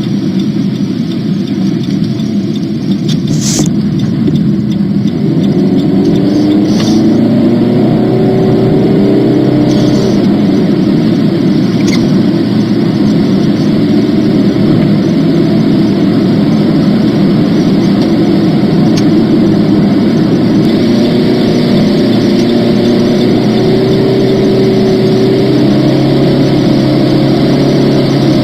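Car cabin noise at highway speed: a steady drone of road, tyre and engine noise heard from inside the car, a little louder after the first few seconds and then even.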